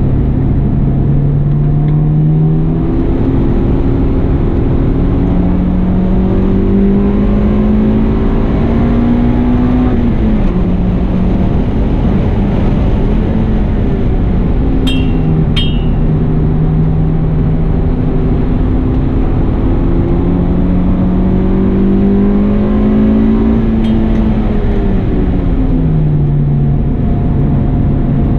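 Honda Integra Type R four-cylinder engine heard from inside the cabin on a track lap, running hard. Its pitch climbs steadily under acceleration, then drops back as the driver lifts off, several times over. There are two sharp clicks about halfway.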